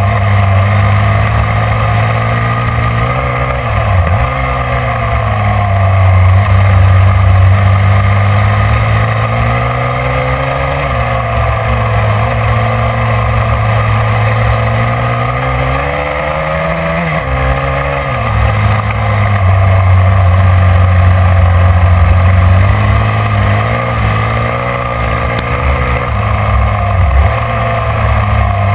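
Motorcycle engine running hard, heard from a camera mounted on the bike, its pitch climbing and dropping again and again with throttle and gear changes through the turns.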